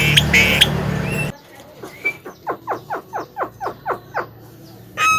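About a second of loud mixed noise that cuts off suddenly, then a Javan myna giving a quick run of about a dozen short notes, each falling in pitch, at roughly five a second.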